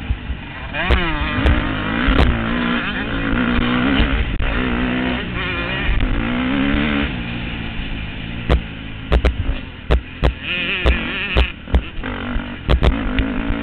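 Motocross bike engines revving, their pitch rising and falling repeatedly as the riders work the throttle through the track. In the second half there is an irregular run of sharp knocks and crackles.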